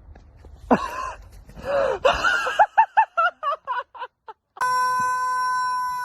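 Loud high-pitched squealing cries with sweeping pitch, then a quick run of short yelps, and after a brief pause a long, steady, loud tone.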